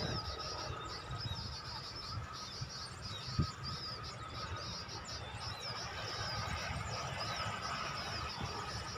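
Small birds chirping and twittering rapidly and without pause in high-pitched calls, over a low rumble of wind on the microphone, with one brief thump about three and a half seconds in.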